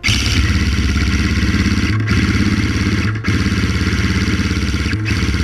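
Airsoft electric gun firing long full-auto bursts, a fast mechanical buzz with short breaks about two, three and five seconds in.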